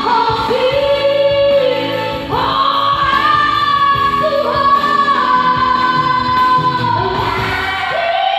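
A woman singing a slow melody with long held notes, with backing music and other voices in harmony.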